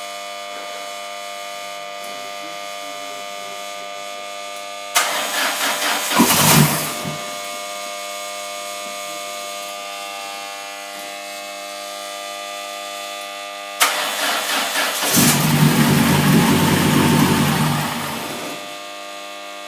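Newly assembled engine being started for the first time: about five seconds in the starter cranks it for about two seconds with a brief firing, then later a second crank, after which the engine runs for a few seconds and dies away. A steady electrical hum underlies it.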